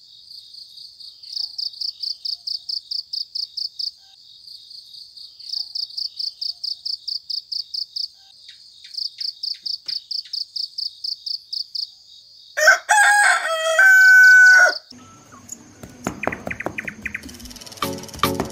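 Three bouts of high, evenly pulsed insect chirping, about six chirps a second at one pitch, then a rooster crows once, loud and about two seconds long, a little after twelve seconds in. A clatter of short clicking and rustling sounds follows near the end.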